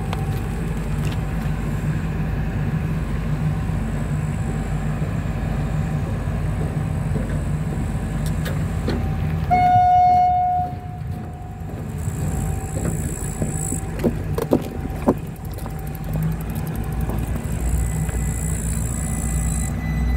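Train engine running with a steady low rumble, and one short horn toot of about a second near the middle. A few faint knocks follow a few seconds later.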